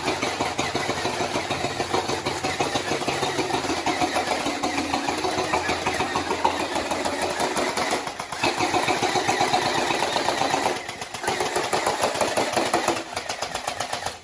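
Electric gel blasters firing on full auto: a fast, buzzing motor-and-gearbox rattle in long bursts, with short breaks at about 8 and 11 seconds where the trigger is let off.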